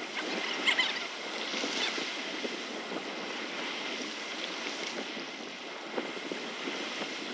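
Water splashing and lapping with wind noise, with a few short sharper splashes in the first second.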